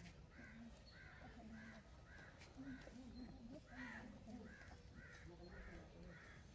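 Faint bird calling over and over: short calls that rise and fall, about two a second.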